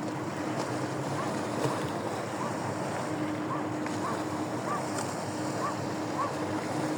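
Steady outdoor rushing noise of wind or water. A short, high, arched chirp repeats about once or twice a second, over a faint, intermittent low hum.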